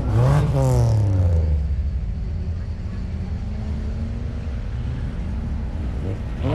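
A vehicle engine revved once, its pitch rising and falling over about a second and a half, then settling back to a steady low idle rumble.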